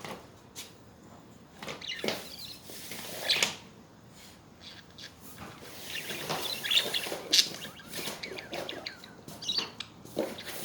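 Budgerigars chirping and chattering in short, irregular calls, busier in the second half.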